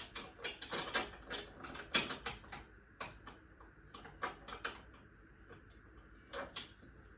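Metal hand tools clicking and clinking: a socket set being worked, with a ratchet and sockets knocking together. The clicks come thick and irregular for about three seconds, then thin out to a few, with a last pair near the end.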